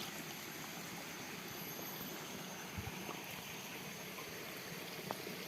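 Faint, steady rushing of running water, with a few soft clicks about halfway through and near the end.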